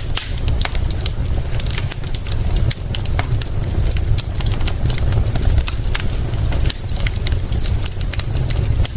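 Wood fire crackling with frequent sharp pops over a steady hiss of rain, with a continuous low rumble underneath.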